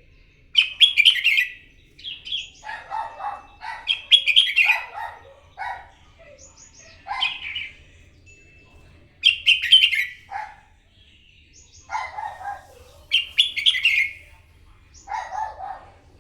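Red-whiskered bulbul singing its fighting song: a string of short, bright, warbled phrases, several loud ones spaced a few seconds apart with lower, softer notes between them.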